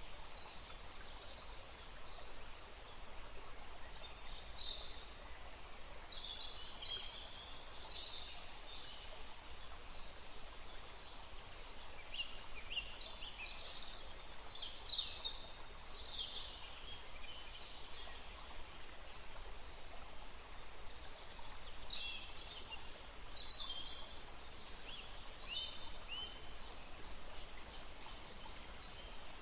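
Songbirds chirping and trilling in short, scattered phrases, busiest in three spells, over a steady outdoor hiss.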